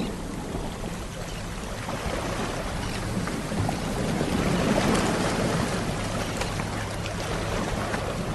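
Sea waves washing on the shore, a steady rush with a low rumble that swells about halfway through and eases again.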